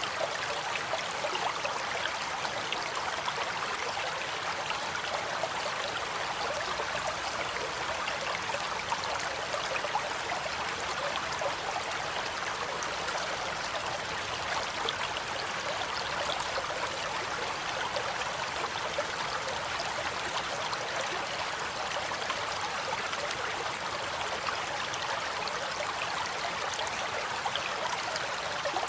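Stream water flowing and trickling over stones, a steady babble with constant small splashes.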